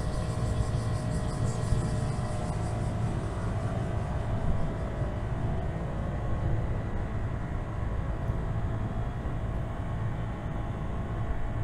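Steady vehicle running noise while travelling: a continuous low engine and road rumble.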